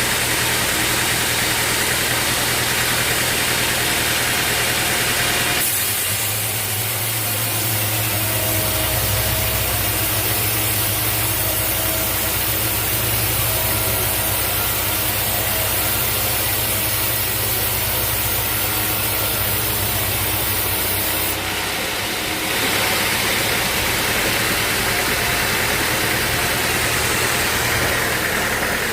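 Sawmill machinery engine running steadily, with its sound changing abruptly about six seconds in and again around twenty-two seconds.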